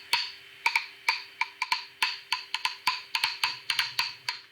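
Wooden percussion, like a wood block, struck in a quick, uneven rhythm: sharp clicks that ring briefly, about four to five a second.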